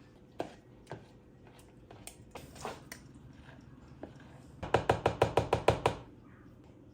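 Kitchen utensil work: a few scattered light clicks, then, near the end, a fast, even run of about ten sharp knocks in just over a second.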